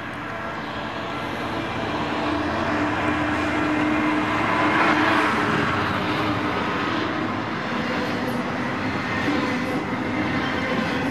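A diesel freight locomotive approaches and passes close by. Its engine hum is loudest about five seconds in, and then comes the steady rolling rumble of a long train of covered hopper wagons going past.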